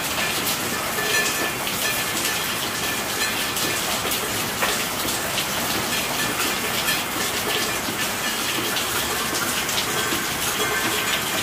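Steady rainfall: an even hiss of rain with many small drop taps running through it, at an unchanging level.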